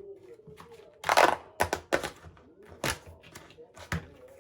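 Kitchenware clattering: a run of sharp knocks and clicks, with a short rushing burst about a second in.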